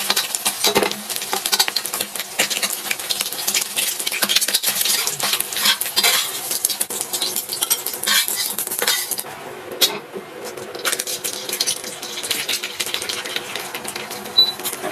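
A metal utensil clattering and stirring in a pan while food sizzles, with a brief lull about two-thirds of the way through.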